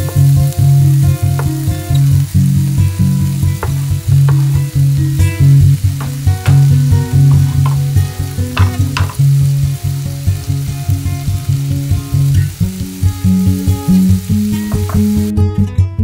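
Diced onions and tomato sizzling as they fry in a pan, with a few clinks of stirring. Background music with a repeating bass line plays throughout. The sizzling cuts out just before the end, leaving the music.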